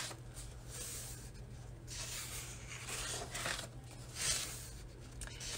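Soft rustling and brushing of paper pages of a colouring book being handled, in a few short brushes, over a low steady hum.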